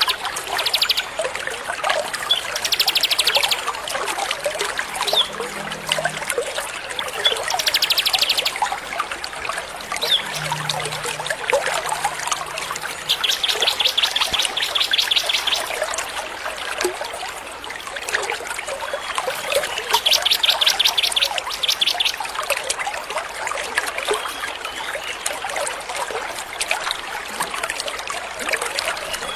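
Small songbirds chirping and singing continuously, with a rapid buzzy trill breaking out every few seconds, over steady trickling water.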